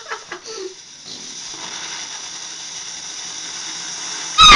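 Firework hissing steadily from about a second in. Near the end comes a very loud, short, high-pitched shout.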